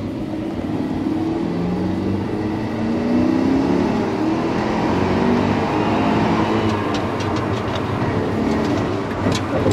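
Porsche Cayenne's engine heard from inside its stripped-out cabin, rising in pitch as the car accelerates during the first few seconds, then running steadily. A few short clicks near the end.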